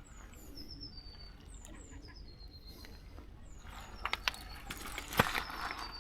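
Small birds calling: a run of short, high whistled notes, each sliding downward, about two a second. In the second half the calls fade under a spell of irregular clicks and rustling.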